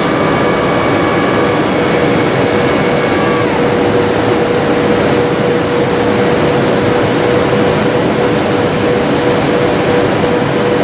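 Jet airliner cabin noise in flight: a steady, loud rush of engine and airflow noise with a constant hum. A few higher whining tones drop out within the first few seconds.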